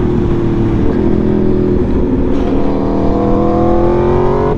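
Aprilia Tuono V4's 65-degree V4 engine pulling hard under acceleration: its pitch sags slightly, then rises steadily through the second half and drops sharply near the end as the rider shifts up a gear.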